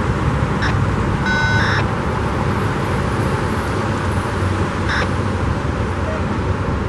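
Double-stack intermodal container train rolling slowly past, a steady rumble of wheels on rail, with a few brief high squeaks: one about a second in and another near five seconds.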